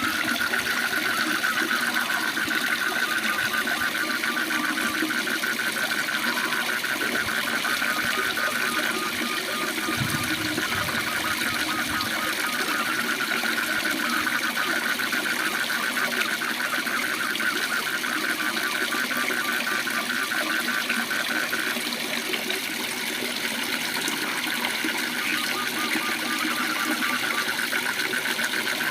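Waterfall rushing in a steady hiss, with a continuous fast-pulsing trill of frogs over it.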